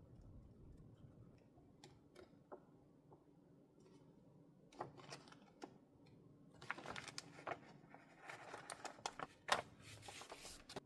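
Faint handling sounds of paper and stationery on a desk: a few light clicks, then from about halfway on, busy runs of small crisp clicks and scratchy rustles.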